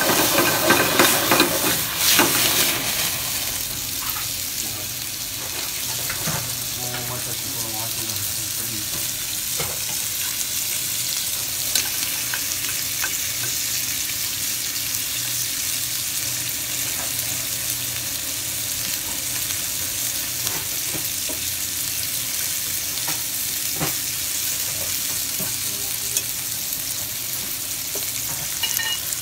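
Shrimp sizzling in hot oil in a frying pan, a steady hiss. It is louder for the first couple of seconds while the pan flares up in flames. A few light clicks come from the utensil turning the shrimp.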